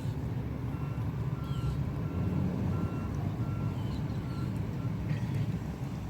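Garbage truck engine running with its backup alarm beeping at a steady pace, a little under two beeps a second; the beeping stops about five seconds in.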